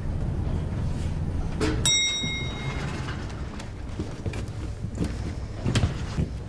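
Low, steady rumble of an idling vehicle engine, then a sharp metallic strike with a short ringing tone about two seconds in, followed by scattered knocks and thumps.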